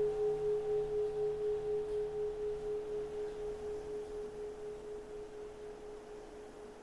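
A keisu, the bowl-shaped bell of Zen temples, ringing on after a strike: one steady tone with a fainter higher tone above it, wavering a few times a second and slowly dying away.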